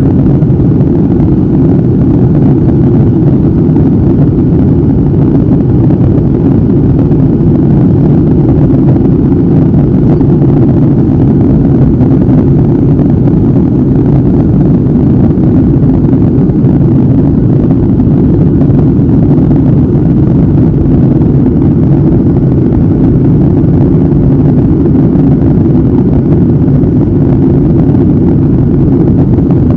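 Steady low rumble and rush of an airliner cruising, heard from a window seat inside the cabin: engine and airflow noise, even and unbroken.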